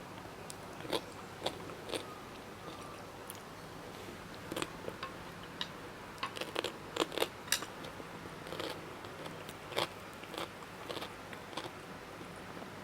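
Close-up crunchy eating sounds: someone biting and chewing crisp food, with irregular sharp crunches coming in clusters, the densest between about four and a half and ten seconds in.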